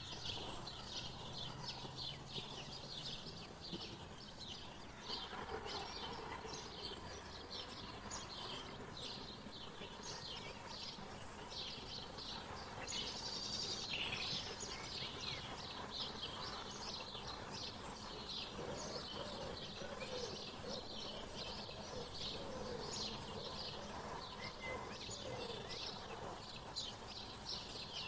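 Wild birds chirping: a steady stream of short high chirps, several a second, with a louder flurry about halfway through. Lower, gliding calls join in the second half.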